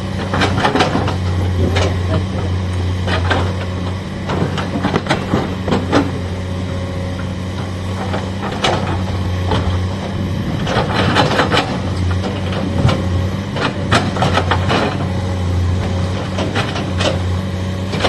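Excavator's diesel engine running steadily under load, with repeated clanks, knocks and scrapes as the bucket breaks into rocky soil and stones tumble.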